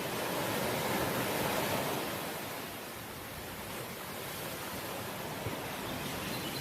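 Ocean waves washing onto the shore: the surf swells over the first two seconds, eases off around the middle, then slowly builds again.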